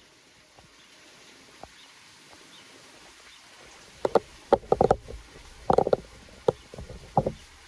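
Rain on banana leaves: a faint patter of rain, then from about four seconds in a run of loud, irregular pats as heavy drops strike the broad leaves.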